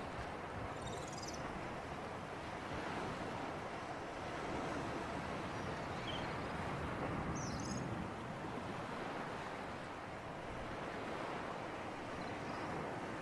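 Sea surf and breeze: a steady wash of waves that swells and eases gently, with a few brief, faint high chirps over it.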